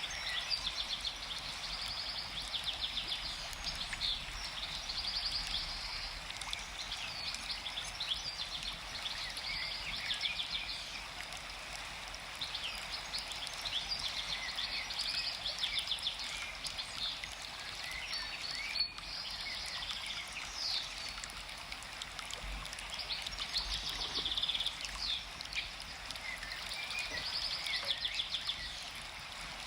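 Forest ambience: many small birds chirping and trilling over a steady rush of running water. A brief click sounds about nineteen seconds in.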